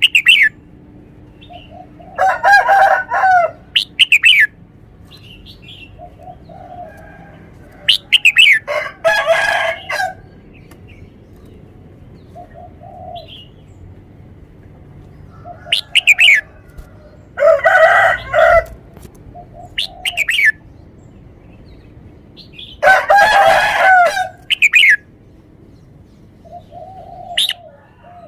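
Red-whiskered bulbul singing its song in repeated phrases, about five bursts of one to two seconds each, with quick falling whistled notes and pauses of several seconds in between.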